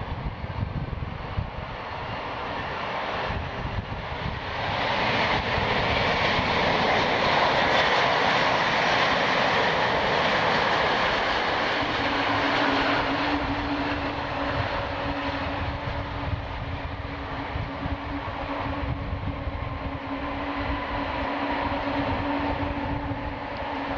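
Jet engine noise of a Boeing 777-200 airliner, swelling to its loudest about five seconds in, holding for several seconds, then easing off. A steady low tone comes in about halfway.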